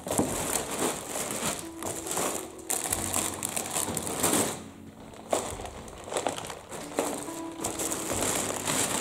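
Plastic shopping bags and snack packets crinkling and rustling as groceries are lifted out, in repeated spells with a short lull about halfway, over quiet background music.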